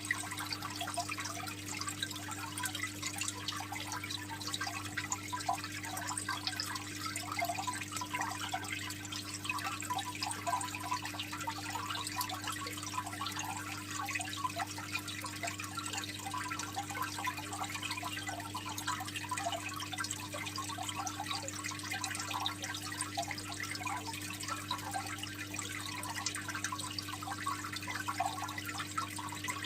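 Aquarium water trickling and splashing steadily as the filter returns water to the tank, with a steady low hum from the pump.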